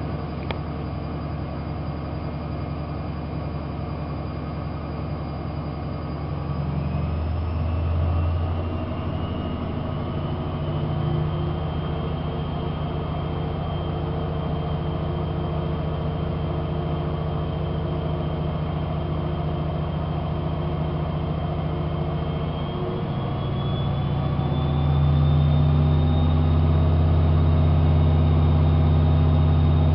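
AEG Lavamat 5210 washing machine spinning up: the drum motor whines and hums steadily, its pitch rising and the sound growing louder in two stages, about a quarter of the way in and again near the end, as the drum speeds up.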